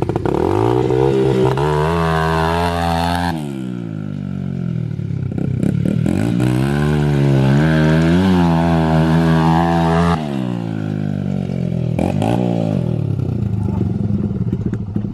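Small dirt bike engine revving hard in two long pulls, each held for a few seconds with the pitch wavering, then dropping back.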